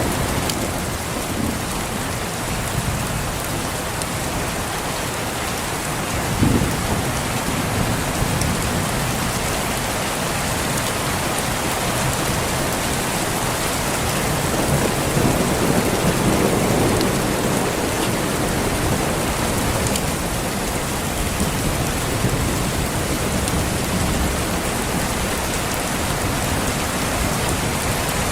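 Steady rain falling, with thunder rumbling low in the distance: a short low thud about six seconds in and a longer roll in the middle.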